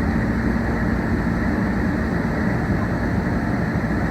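Meitetsu 1800 series electric train heard from inside the car while running: a steady rumble of wheels and running gear on the rails.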